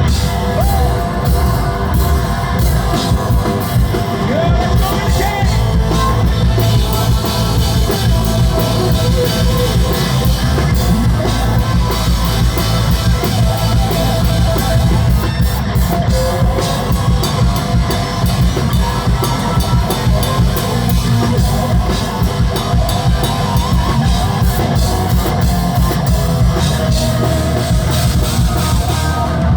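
Rock band playing live and loud: drum kit pounding steadily under electric bass and guitars, with no break.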